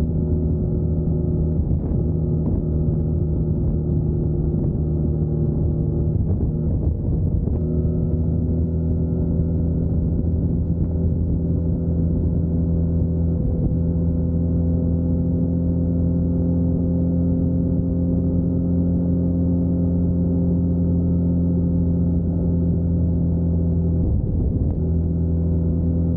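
2021 Yamaha MT-09's 890 cc three-cylinder engine running under way at a steady cruising speed, heard from a camera mounted on the bike. The engine note breaks and settles to a new pitch about seven seconds in, and breaks briefly again near the end.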